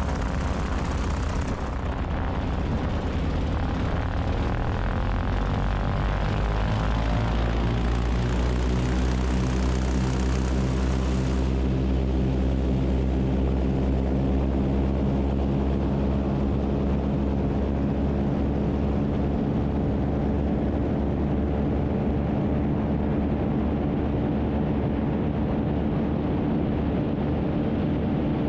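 The Beech 18's twin radial engines running at full takeoff power as the plane lifts off and climbs, a steady loud propeller drone. Several of its tones drift and settle about eight to twelve seconds in.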